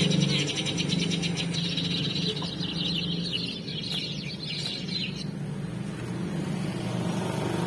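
Eurasian tree sparrows chirping in a dense, rapid chatter that stops about five seconds in, over a steady low hum.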